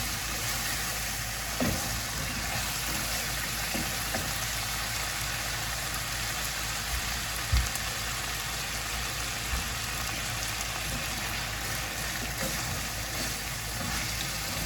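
Chicken pieces frying in a pan in the oil rendered from their own skin, a steady sizzle. A couple of soft knocks break in, one early and one about halfway through.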